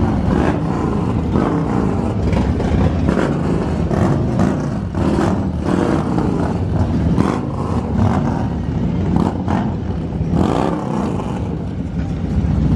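Loud motor vehicle engine noise, running with repeated short surges.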